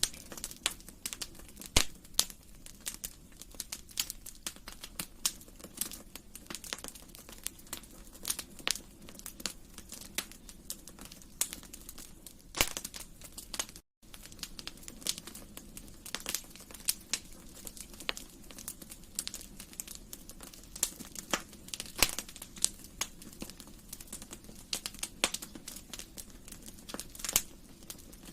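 Wood fire in a fireplace crackling, with sharp irregular pops and snaps over a steady low rumble of the flames. A split-second gap of silence falls about halfway through.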